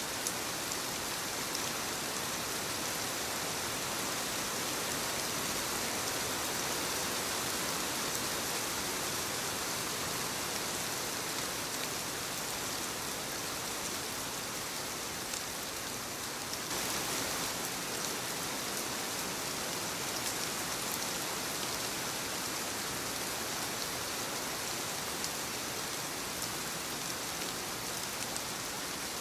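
Soft rain falling on leaves: a steady hiss with single drops ticking here and there. The tone shifts slightly, a little brighter, a bit over halfway through.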